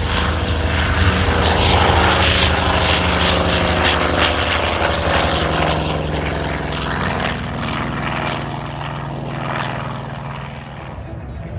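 Propeller-driven airplane's piston engine running in a pass overhead, with a steady drone and propeller noise. It is loudest about two seconds in and eases off after that.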